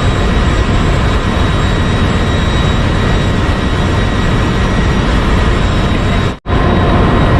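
Ship's engine room machinery running: a loud, steady din with a few faint steady whining tones on top. It cuts out for an instant about six seconds in, then carries on unchanged.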